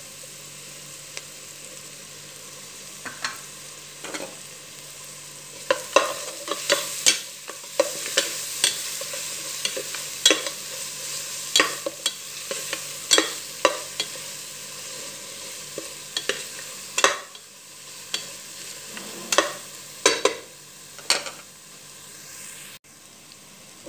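Onions and spices frying in oil in a pot, with a steady sizzle, while tomato sauce is stirred in with a spoon that knocks and scrapes against the pot over and over from a few seconds in.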